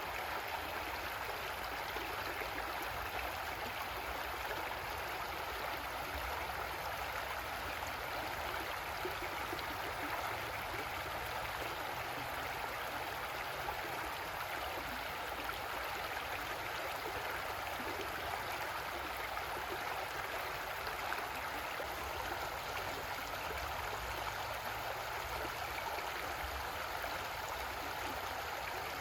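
Creek water flowing and gurgling over rocks in a steady, even rush.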